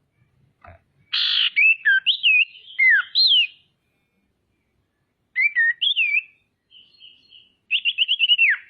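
Female common iora (sirtu, cipoh) singing in three bursts of clear whistled notes with quick up-and-down slurs. The last burst is a rapid run of notes ending in a falling whistle.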